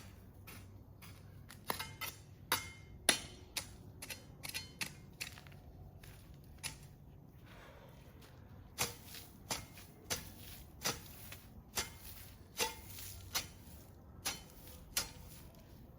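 A series of sharp knocks or taps at an uneven pace, roughly one or two a second, pausing briefly near the middle.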